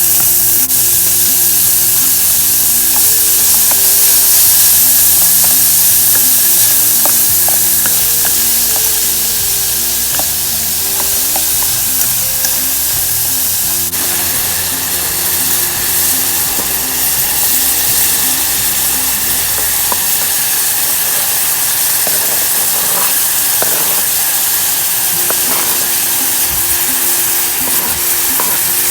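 Food sizzling in a pan, a steady hiss with scattered small crackles, with background music under it for most of the time.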